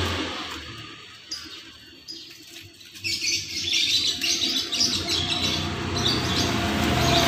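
Small birds chirping rapidly and repeatedly, the chirping starting about three seconds in.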